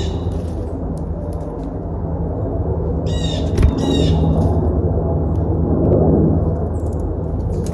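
Backyard birds calling: two short calls of rapid, chattering notes about three seconds in, with a brief knock between them, over a steady low rumble.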